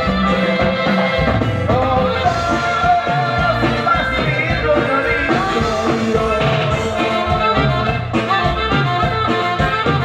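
Latin band music with a singing voice and a pulsing bass line.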